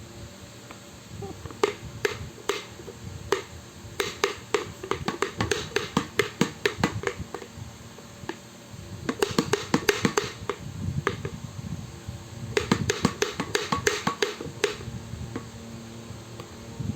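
Runs of rapid, sharp clacking clicks, a few seconds each, that sound like lato-lato clacker balls, with a few scattered single clicks before the first run.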